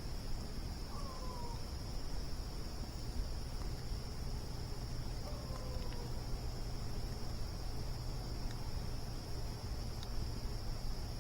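Steady high-pitched chorus of crickets, with a few faint crackles from a campfire. Two short falling whistle-like calls come about one second in and again about five seconds in.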